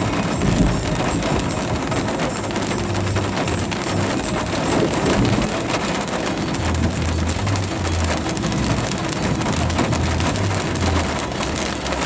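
Heavy rain beating on a vehicle's windshield and roof, heard from inside the cabin as a steady wash with many small hits, over a low hum that comes and goes.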